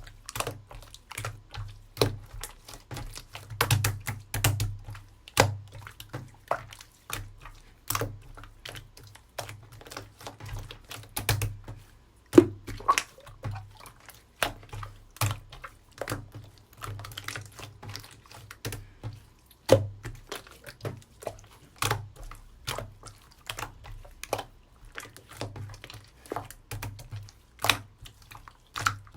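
Hands squishing and stretching a soft, wet slime, making irregular sticky clicks and pops, a few each second.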